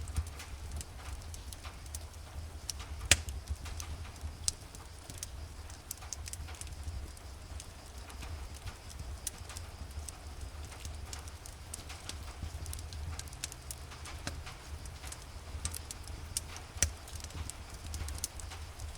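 Fireplace crackling, with irregular sharp pops and snaps over a steady low rumble, mixed with the soft hiss of rain.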